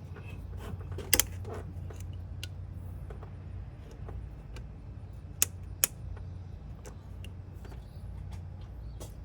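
Scattered metallic clicks and clinks of hand tools and parts being handled in a car's engine bay, over a steady low hum. The sharpest click comes about a second in, and two more come close together near the middle.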